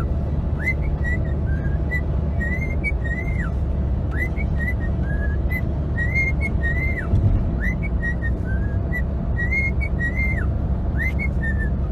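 A pet parrot whistling a string of short rising and falling notes, over a steady low rumble.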